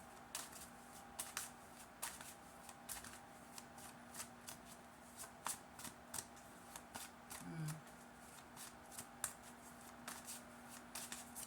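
A tarot deck being shuffled by hand, the cards giving off many quick, irregular snaps and flicks.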